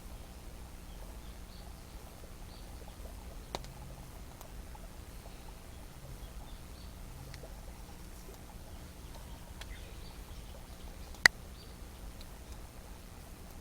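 Wood campfire crackling faintly, with scattered small ticks, a sharper pop about a quarter of the way in and one loud crack later on.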